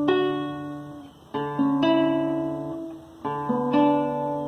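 Acoustic guitar strumming chords between sung lines, each chord ringing out and fading before the next stroke, the strokes coming in pairs.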